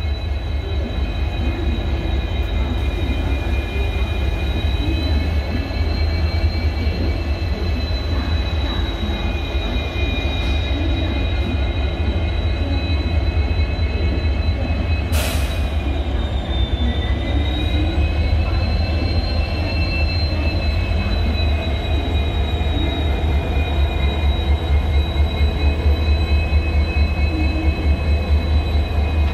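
EMD WDP4D diesel-electric locomotives idling with their characteristic EMD hum: a steady deep drone with high whines above it that drift slightly up and down in pitch. A single sharp knock about halfway through.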